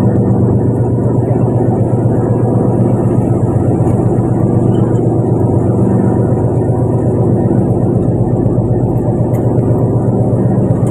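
Fishing boat's engine running steadily at a constant pitch, a continuous low hum.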